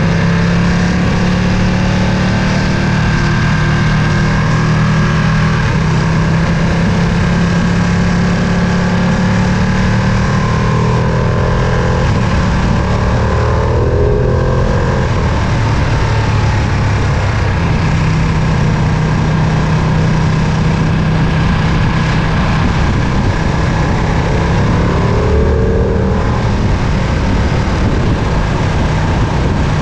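Ducati Panigale V2's 955 cc Superquadro V-twin engine running steadily while the motorcycle is ridden, its note changing pitch twice, about halfway through and again near the end.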